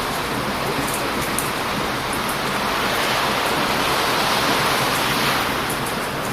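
Heavy surf washing onto a beach, swelling to a peak about three seconds in and easing again near the end, with a few faint crackles from a wood campfire.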